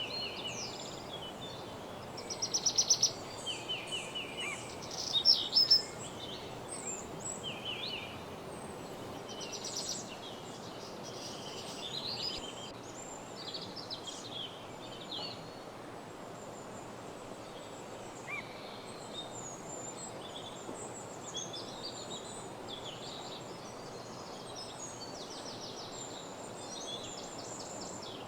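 Several songbirds singing and chirping in a woodland morning chorus over a steady low background hiss. The loudest rapid trills come about two to three seconds in and again around five seconds.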